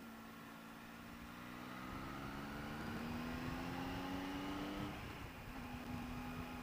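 Triumph Tiger 800 XRT's three-cylinder engine pulling under throttle, its note rising steadily for about five seconds, then dropping and settling at a steady pitch.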